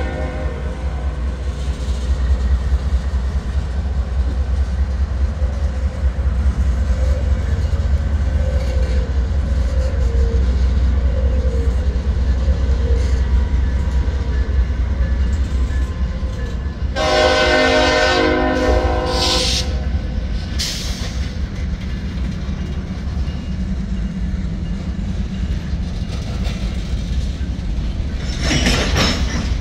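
CSX freight train rolling past: a deep diesel rumble and the steady clatter of wheels on rail from locomotives and covered hopper cars. The locomotive's multi-chime air horn sounds once for about two and a half seconds about halfway through, and a brief high wheel squeal comes near the end.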